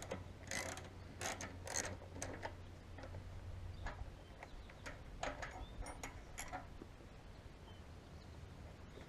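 Metal hand tools clicking and rattling in short bursts, a cluster in the first couple of seconds and another around five to six and a half seconds in, as the carburetors are worked loose on a 1982 Yamaha Maxim 550 motorcycle.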